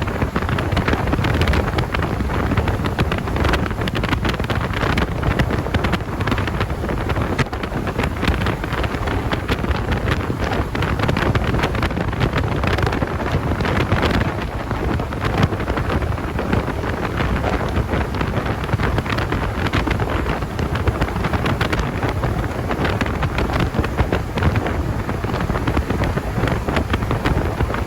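Wind buffeting the microphone over the steady running of a car, a continuous rough rumble with constant gusty crackle.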